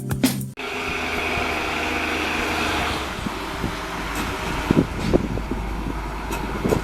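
ALCO diesel locomotive engine running steadily, a low drone under a broad mechanical hiss, with a few sharp metallic knocks in the second half. Background music cuts off about half a second in.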